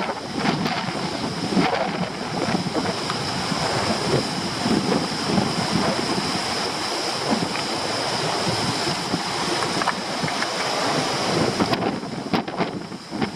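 Stormy sea surf breaking on rocks, with very strong wind buffeting the microphone in steady, gusting rushes.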